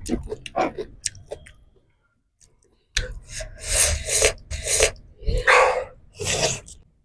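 A person chewing food close to the microphone: short crisp bites and crunches, a brief pause, then several longer noisy mouth sounds.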